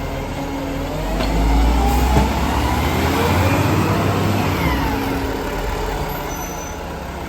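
Garbage truck's diesel engine running and revving, its pitch rising then falling, loudest in the middle and easing off towards the end.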